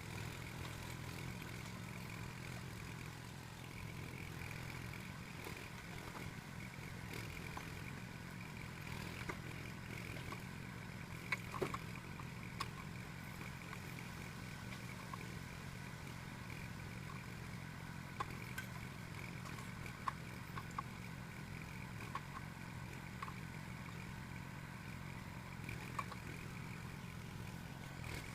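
Small engine of a log loader running steadily, with a few sharp knocks and clanks scattered through.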